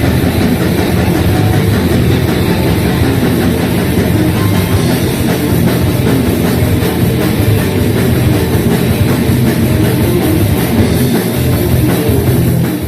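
Death metal band playing at full volume, with drums and heavy, dense guitar and bass that run without a break.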